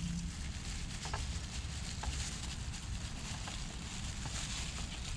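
A few faint clicks and taps of motorcycle parts being handled and moved during carburetor work, over a steady background hiss and low rumble.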